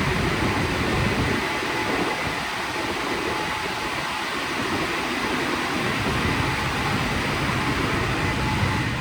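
WashTec SoftCare² Takt rollover car wash in operation: a steady rushing noise with a faint steady whine. The deepest part of the rumble thins out about a second and a half in.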